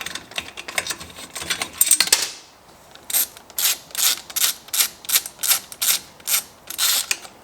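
Ratchet wrench with a Torx bit backing out a chainsaw muffler screw: a fast run of ratchet clicks, then even ratchet strokes about three a second.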